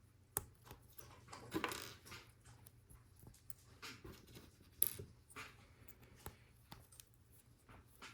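LEGO Technic plastic pieces being handled and fitted together: scattered small clicks and rattles, with a brief scrape about one and a half seconds in and a sharper click near the middle.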